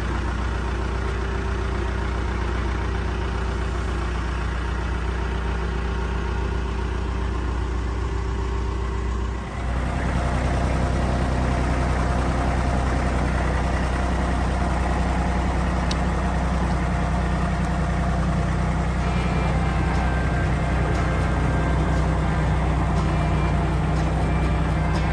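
Backhoe engine running steadily, getting louder and busier about ten seconds in and holding there.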